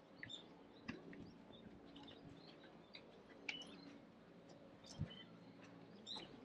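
Quiet outdoor ambience with faint, scattered chirps of small birds and a few soft knocks.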